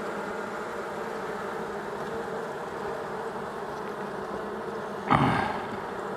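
Honey bees buzzing steadily around an opened hive, with a short, louder noise about five seconds in.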